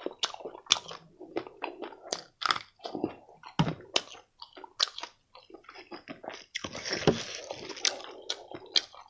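A person chewing and biting food close to the microphone: irregular crunchy bites and wet mouth clicks with short pauses, and a denser burst of chewing noise about seven seconds in.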